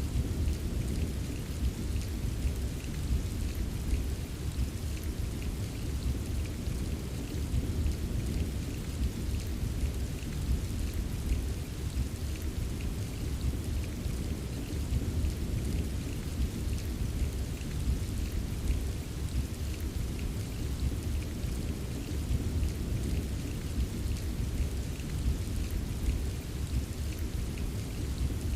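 Steady rain ambience: an even wash of rainfall with a deep, constant low rumble and faint scattered drop ticks, unchanging throughout.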